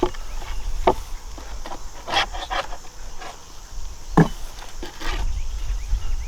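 Wooden beehive parts knocking and scraping, a few separate sharp knocks and scrapes as the hive is opened and worked with a hive tool, over a low wind rumble.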